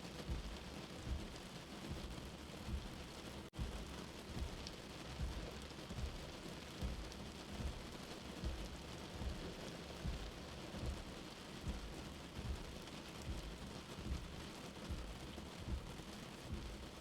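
Steady rain hissing, with a soft, low heartbeat thump repeating about every 0.8 seconds beneath it, briefly cutting out for a split second about three and a half seconds in.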